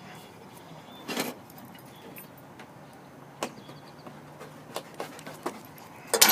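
Handling noise: a few separate sharp clicks and light rattles of small hard objects over a faint steady background, the loudest cluster near the end.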